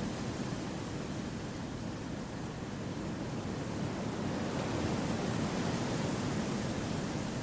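Wind rushing steadily through forest trees, a soft even noise that eases a little and then swells again past the middle.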